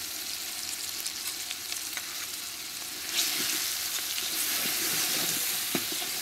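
Chopped shallots, lemongrass, chilies and chili paste sizzling in hot oil in a large aluminium pot while a metal ladle stirs them. The sizzle grows louder about three seconds in as the ingredients are stirred through the oil.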